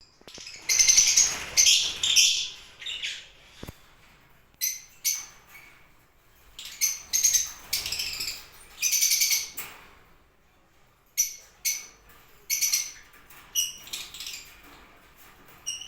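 Caged pet birds calling: loud, shrill calls repeated in bursts of a quarter second to a second, with short gaps between them.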